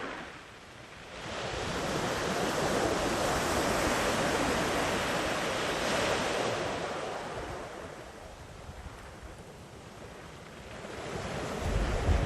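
Sea waves washing onto the beach. A wave builds about a second and a half in, surges for several seconds and ebbs away, and another swells near the end. A brief low rumble of wind on the microphone comes near the end.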